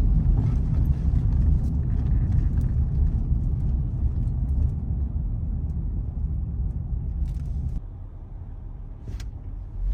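Car cabin rumble while driving: a steady low drone of engine and road noise, easing somewhat near the end.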